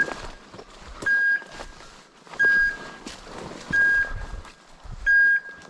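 A bird dog's beeper collar sounding its point-mode signal: a steady high beep about every 1.3 seconds, four times, the sign that the dog is standing motionless on point. Soft rustling of brush in between.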